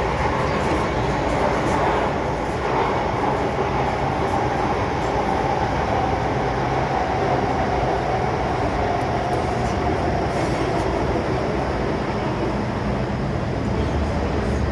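MTR M-Train metro train running on the Kwun Tong Line: a steady rumble of wheels and running gear, with a faint tone that slowly falls in pitch through the middle.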